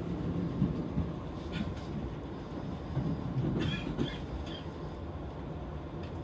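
Tokaido Line electric commuter train running on the rails, heard from inside the car: a steady low running rumble, with a few brief high squeaks about halfway through.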